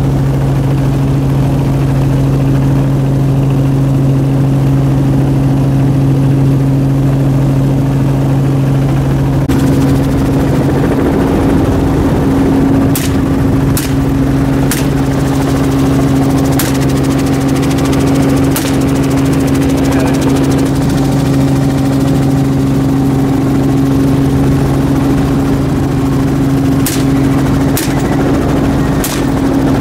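Helicopter running steadily: a loud, even drone with a low hum and a steady tone above it. About halfway through, a scattering of short, sharp cracks starts to come in at irregular intervals.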